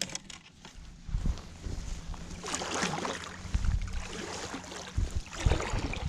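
Kayak paddle strokes dipping and swishing through the water, about four strokes a second or so apart.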